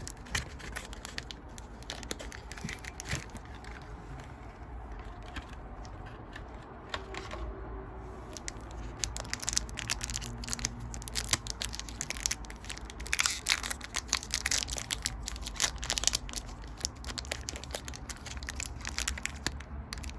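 Foil Pokémon booster-pack wrappers crinkling and tearing and trading cards being handled: a run of quick crackles and rustles that gets busier about halfway through.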